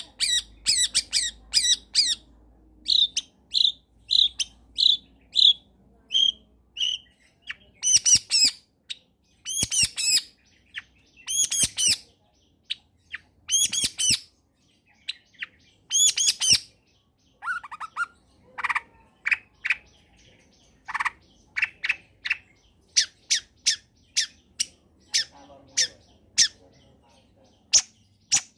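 Long-tailed shrike (cendet) singing a varied song: strings of short, high chirps and whistles, a run of longer harsh calls about every two seconds in the middle, then quick short chips near the end.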